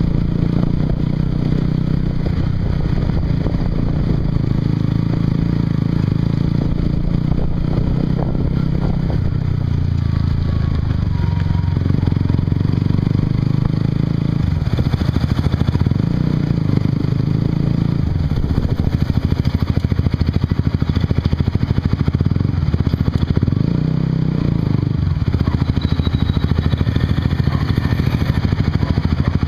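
Honda CBR150R's single-cylinder engine running through a Yoshimura exhaust while the bike is ridden. The exhaust note shifts up and down in pitch several times as the revs change.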